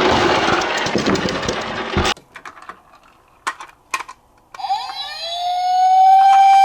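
A loud rattling clatter for about two seconds that cuts off abruptly, a few light clicks, then a police-car-style siren that rises in pitch about four and a half seconds in and holds one steady note.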